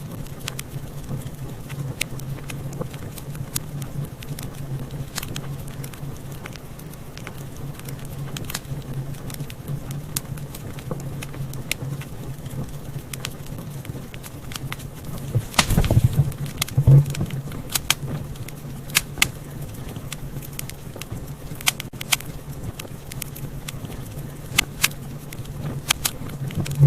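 Wood fire crackling, with irregular sharp pops and snaps over a low steady rumble; a quick cluster of louder pops comes about two-thirds of the way through.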